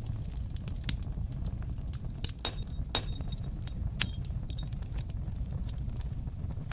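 Fire crackling in a fireplace: a steady low rush of flames with scattered sharp pops and snaps, the loudest about four seconds in.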